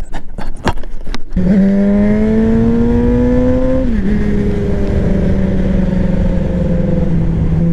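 Motorcycle engine under way: after a few sharp clicks, it pulls with its pitch climbing slowly, drops in pitch about four seconds in as it shifts up, then runs on steadily, with wind rumble on the microphone.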